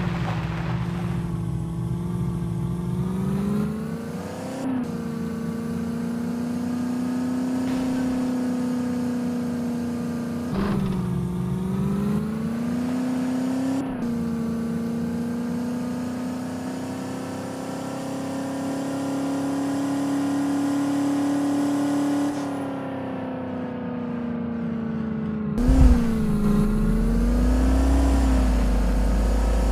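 A small Maruti car's engine pulling under load, its note dropping and climbing again several times with throttle and gear changes. A thump near the end is followed by a low rumble.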